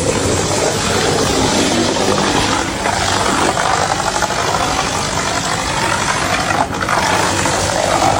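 A loud, steady engine running, with a brief break about six and a half seconds in.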